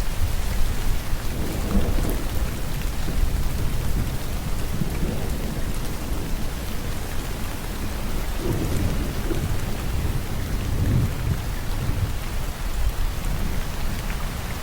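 Steady falling rain with a low rumble of thunder underneath that swells and fades several times.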